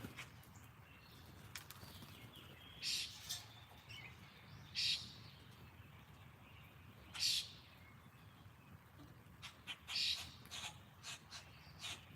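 Wild birds calling at a backyard feeder: four short calls a couple of seconds apart, with small clicks and ticks in between.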